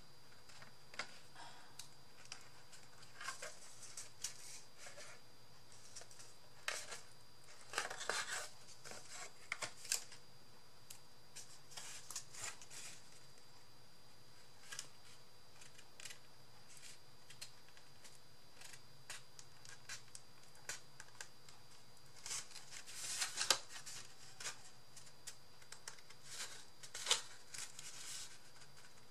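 Cardstock being wrapped around a cardboard circle by hand: intermittent paper rustling, scraping and small clicks, with louder bursts of handling about a quarter of the way in and again near the end.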